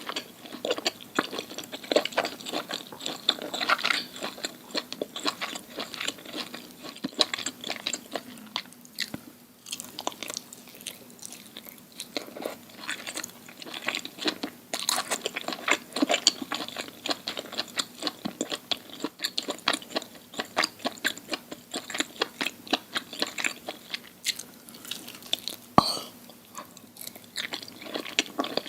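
Close-miked ASMR eating: food being bitten and chewed with a dense run of crisp crunches and wet crackles, and one sharper click near the end.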